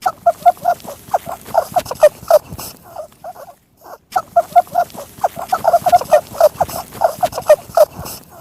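Rabbit calls: a rapid run of short, squeaky notes, about five a second, broken by a brief pause midway.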